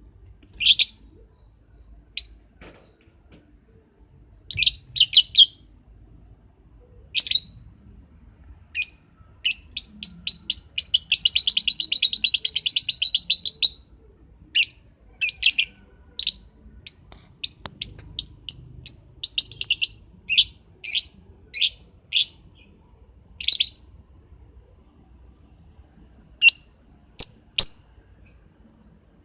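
Lovebird giving sharp, shrill chirps in irregular bursts, with a long fast chattering run of rapid calls about ten to fourteen seconds in, and a few last calls near the end.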